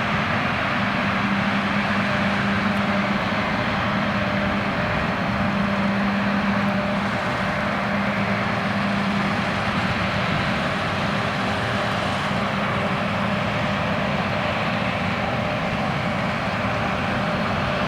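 John Deere X9 1100 combine harvester running steadily while harvesting: a constant machine drone with a low hum that stays even throughout.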